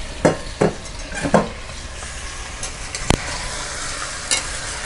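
Raw chicken pieces sizzling in hot oil with onions and tomato in a stainless steel pressure cooker. A metal ladle stirs them, giving several sharp scrapes and clinks against the pot over the steady sizzle.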